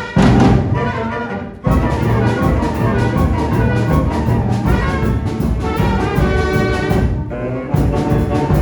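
Brass band music with trumpets and trombones. A held chord is struck at the start and fades; then, about two seconds in, the band moves into a steady beat with drums under it.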